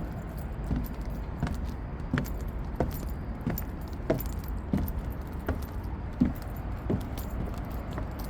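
Footsteps of someone walking at a steady pace, about three steps every two seconds, each step a sharp click, over a steady low rumble.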